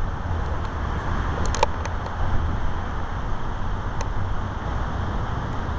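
Steady rush of the Big Thompson River running high and full, with wind buffeting the microphone.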